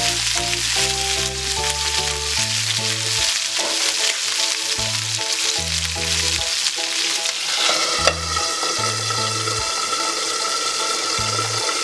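Chicken breasts sizzling in oil in a frying pan as a spatula turns them. About eight seconds in, a glass lid clinks onto the pan and the sizzle goes on under it. Background music with a bass line plays throughout.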